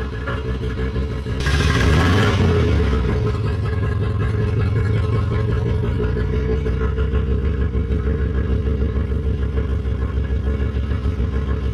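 Ferrari F40 twin-turbocharged V8 running with a steady, rapidly pulsing rumble. About a second and a half in, a brief loud rushing burst rises over it, then fades back to the steady running.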